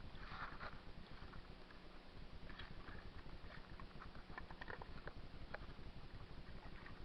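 Faint water lapping and splashing against a kayak hull, with light irregular ticks and knocks.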